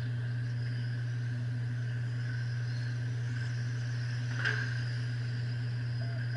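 Electric RC trucks racing, their motors giving a wavering whine over a steady low hum, with one sharp knock about four and a half seconds in.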